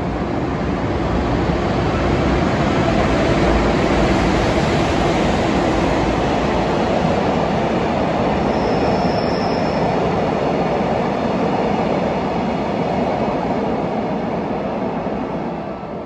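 Train hauled by an EF510 electric locomotive running past close by: a steady, loud rumble of wheels on rails that swells over the first few seconds and holds. A brief faint high squeal comes about nine seconds in.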